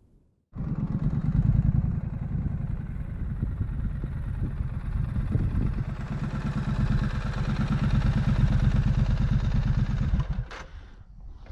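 Triumph Street Scrambler's parallel-twin engine running with a steady pulsing exhaust note. It cuts in abruptly about half a second in and drops away near the end, followed by a couple of sharp clicks.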